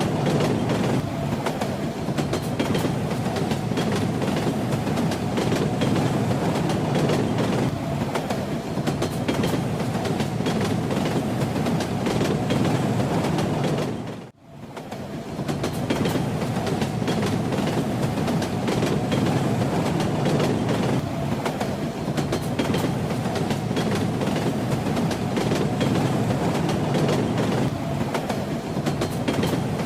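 Steady rumble and clatter of a moving train's wheels on the rails. The sound dips briefly to near silence about halfway through and comes straight back.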